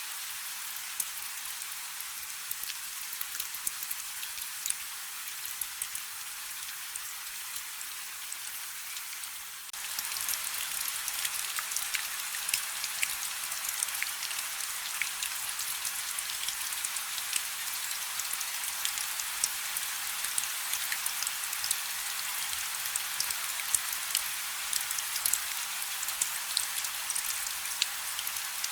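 Light rain falling steadily: an even hiss dotted with many individual drops ticking. The rain gets a little louder and denser about ten seconds in.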